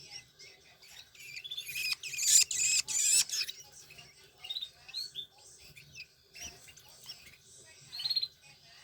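Long-tailed shrike (cendet) nestlings begging for food as they are hand-fed, with high, squeaky calls. The calls come thickest about two to three and a half seconds in, then thin to scattered short chirps, with one more short burst near the end.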